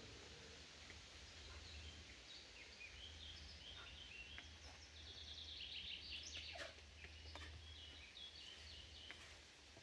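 Faint birdsong in forest: runs of short, high, quick notes, busiest around the middle, over a low steady hum, with a few faint knocks.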